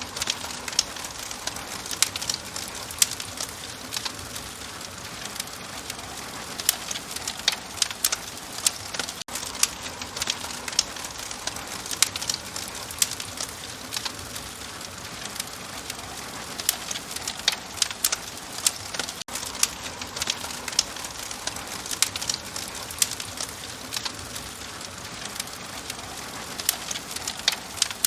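Fire crackling, with frequent sharp pops and snaps over a steady hiss.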